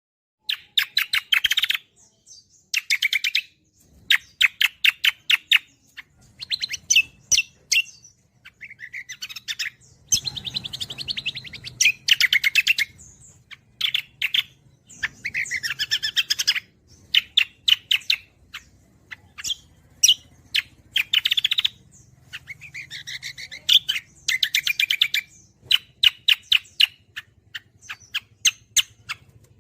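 Greater green leafbird (cucak kombo) singing energetically: loud phrases of rapid, repeated notes, each about a second long, with short pauses between them.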